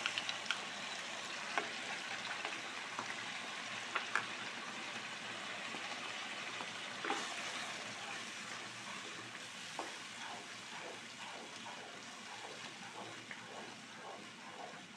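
Chilli paste sizzling as it fries in oil in a non-stick wok, stirred with a wooden spatula. The sizzle eases slowly, with a few sharp clicks in the first half and soft, regular stirring strokes, about two or three a second, near the end.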